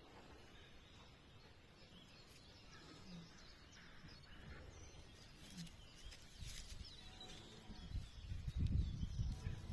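Faint scattered bird chirps over quiet countryside ambience, with a louder low rumble setting in near the end.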